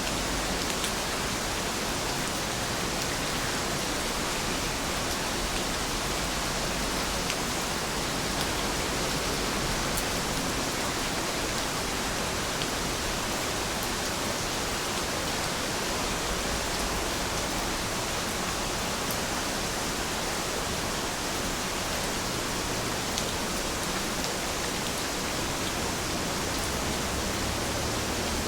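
Steady rain falling: an even, unbroken hiss with a few faint scattered drop ticks.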